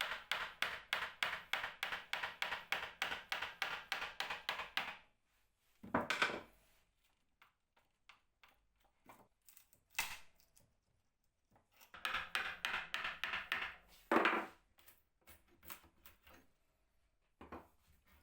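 Quick, even back-and-forth strokes of a hand tool working wood, about five a second, in two runs: one for the first five seconds and another from about twelve to fourteen seconds in. Single knocks fall between the runs and near the end.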